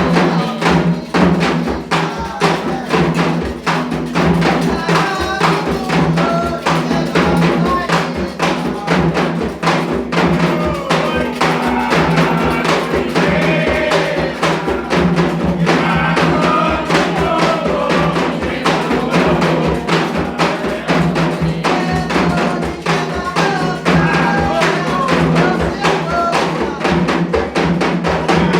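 Candomblé ritual music: hand drums beat a fast, steady rhythm while voices sing a chant over it.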